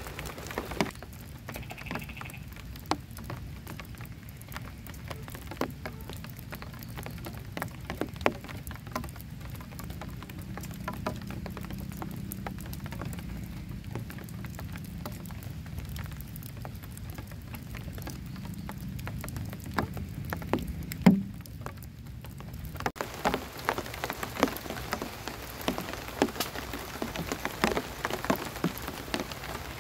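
Heavy rain falling on a camping shelter, with many sharp individual drop ticks over a steady hiss. A low rumble runs under it through the middle, and about 23 seconds in the patter turns abruptly denser and brighter.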